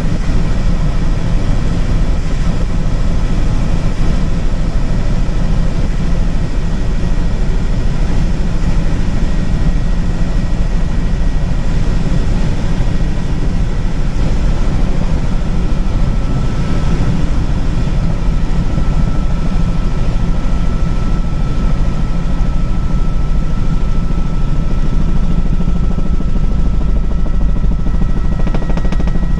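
Helicopter in flight, heard from a passenger's seat: a loud, steady drone of rotor and engine, with a thin steady whine above it.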